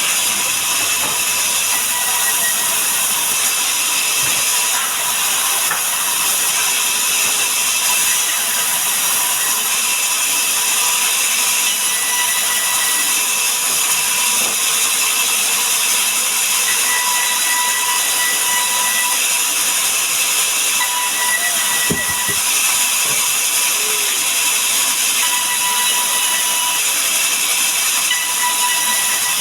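Sawmill saw cutting through a mahogany log: a loud, steady, hissing run of blade through wood, with a faint whine that comes and goes.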